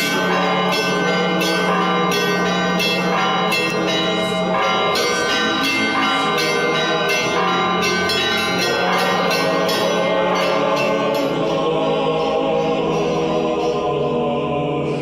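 Church bells ringing in quick, overlapping strikes over choral music; the bell strikes thin out about eleven seconds in, leaving the choir.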